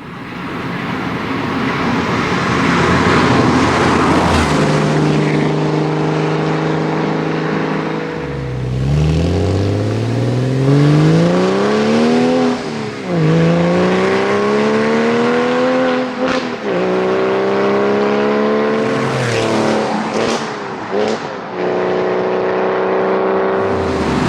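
Porsche 996 Carrera 4S flat-six through a SCART valved sport exhaust, accelerating hard: the engine note climbs steadily and drops sharply at each upshift, twice in a row, followed by a few quick rev rises and falls and a steadier note near the end.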